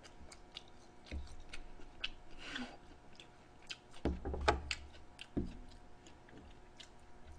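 Quiet chewing and mouth clicks on pig's trotters (jokbal) close to the microphone, then a few louder knocks and clatters about four to five and a half seconds in as chopsticks are picked up from the table.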